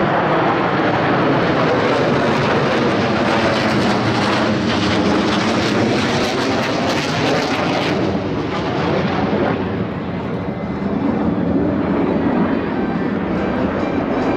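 Blue Angels Boeing F/A-18 Super Hornet jets flying overhead in formation, a loud, steady jet-engine roar that eases slightly about ten seconds in.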